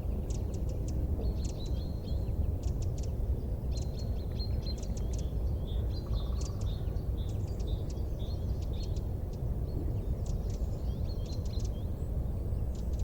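Wood fire burning with a steady low rumble, with many short high chirps and ticks over it, some of them small birds chirping.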